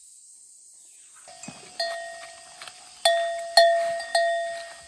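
A metal bell ringing: about four clear strikes of the same pitch, starting just under two seconds in, each dying away slowly.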